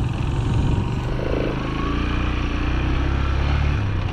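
Small farm vehicle engine running steadily at low revs, a continuous low hum.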